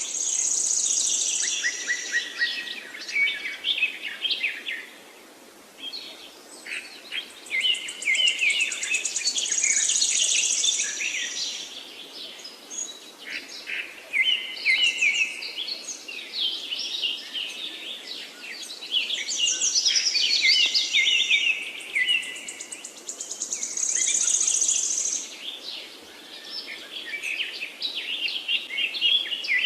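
Songbirds singing continuously in busy, varied phrases, with a very high, rapid trill returning roughly every ten seconds.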